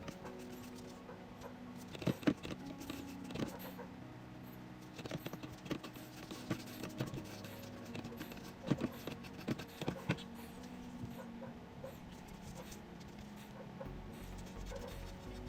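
Light, scattered taps and clicks from tools being handled, about a dozen spread irregularly, over a faint low hum.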